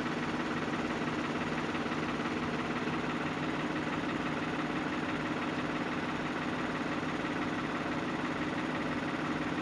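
Case IH JX70 tractor's diesel engine idling steadily.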